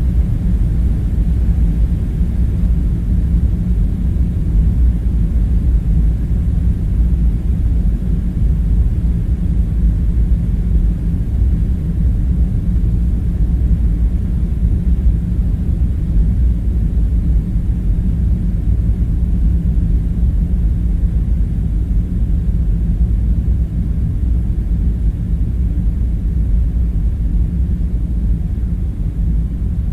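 Steady low rumbling drone of background ambience, unbroken and unchanging.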